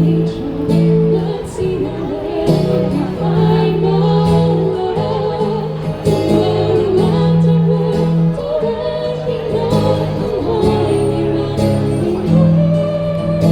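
Live band playing a song with a lead singer over amplified accompaniment, a bass line holding each low note for a second or two.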